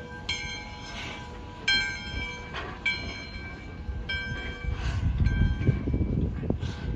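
Steam locomotive bell ringing about once a second on the 1909 ALCO engine No. 93, with puffs of steam exhaust. A low rumble builds from about halfway through as the locomotive works.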